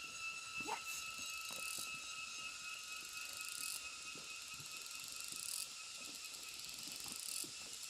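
Insects chirping: a steady high trill runs under a higher buzzing chorus that starts and breaks off in rounds about every two seconds.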